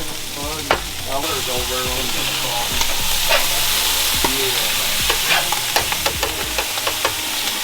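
Breakfast food frying and sizzling steadily in a hot pan, with a utensil clicking and scraping against it now and then.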